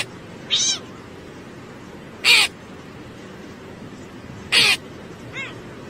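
An animal calling repeatedly: short, harsh calls about every two seconds, three in all, with two fainter pitched calls that fall in pitch between them.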